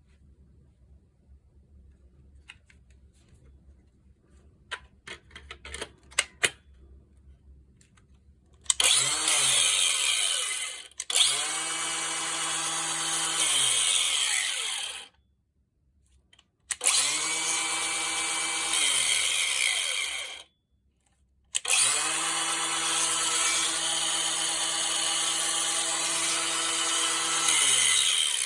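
Makita GA402D cordless disc grinder being test-run for an abnormal noise: light handling clicks, then the motor is switched on four times. Each time it spins up, runs steadily for a few seconds and winds down with falling pitch when released; the last run is still going at the end.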